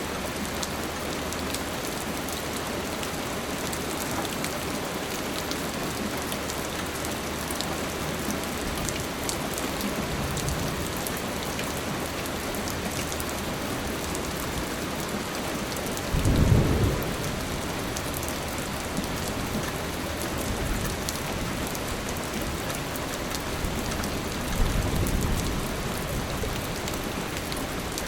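Steady rain falling, with low rumbles of thunder about ten, sixteen and twenty-five seconds in; the one at about sixteen seconds is the loudest.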